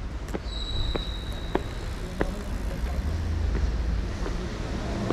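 City traffic rumbling low and steady, with a few sharp clicks in the first couple of seconds. A high, steady beep sounds about half a second in and holds for about a second and a half.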